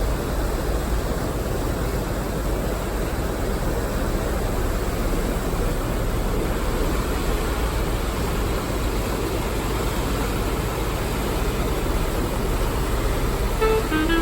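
Steady outdoor street noise with a low rumble, typical of road traffic in a city.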